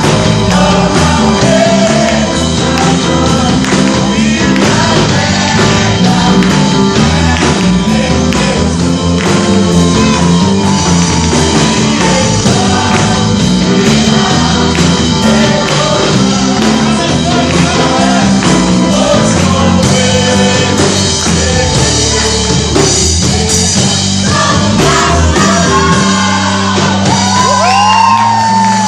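Portuguese-language gospel worship song played by a band, with a group of men singing together. A long held note slides in pitch near the end.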